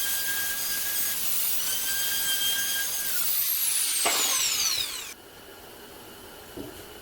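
Jigsaw running with a steady high motor whine, easing briefly about a second in. Past the middle the motor winds down with a falling whine, then the sound cuts off suddenly, leaving only a quiet background.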